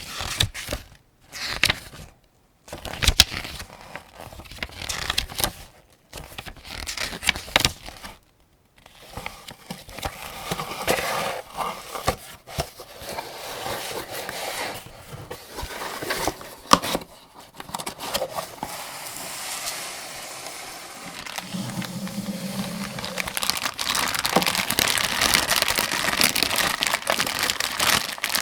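Handling and loading of an AK-47 75-round drum magazine with its cartridges. Separate sharp clicks and scrapes come with short pauses at first, then denser handling and crinkly rustling that grows steadier and louder near the end.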